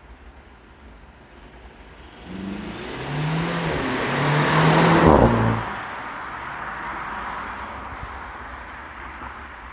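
Mercedes-Benz C300 4Matic on its stock exhaust accelerating, the engine note building from about two seconds in and loudest about five seconds in, then dropping in pitch and fading away with road noise, as of the car driving past.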